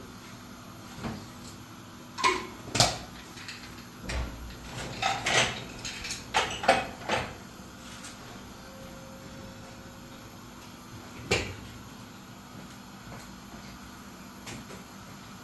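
A series of sharp knocks and clatters, bunched together over a few seconds and then one more a few seconds later.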